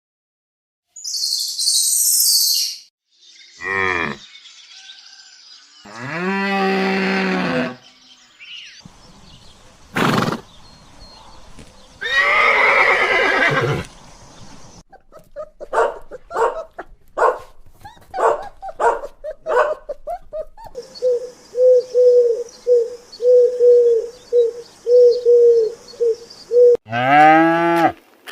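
A string of different animal calls, one after another: short high chirps, longer pitched calls, and near the end a fast run of short repeated calls followed by a lowing call.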